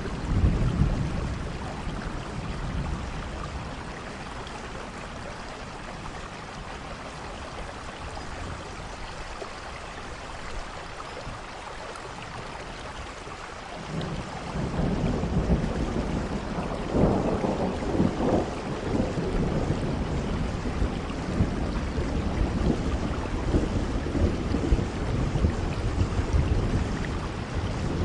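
Steady rain falling, with rolling thunder. A rumble at the start fades over a few seconds. A longer rumble builds about halfway through, with sharper cracks a few seconds later, and rolls on to the end.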